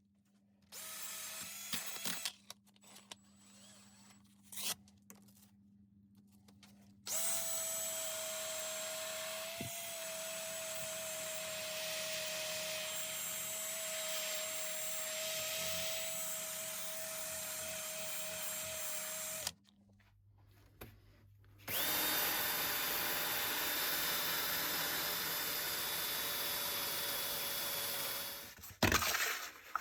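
An electric power tool runs in two steady stretches, roughly twelve and six seconds long, each starting and stopping abruptly, with a steady motor whine. There are brief shorter bursts near the start.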